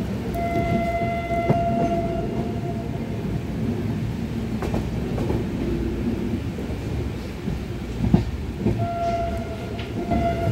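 Passenger train running along the track, heard from inside a coach: a steady rumble of wheels on rail with a few sharp knocks from rail joints. A steady tone with overtones sounds twice, for about two and a half seconds soon after the start and again near the end.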